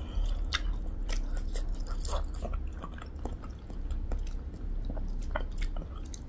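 A person chewing a mouthful of spicy pork-leg achar with rice close to the microphone, mouth closed, with many short irregular clicks of the chewing.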